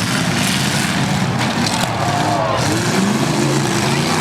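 Engines of several demolition-derby pickup trucks running and revving at once, their pitch rising and falling over a steady, loud din.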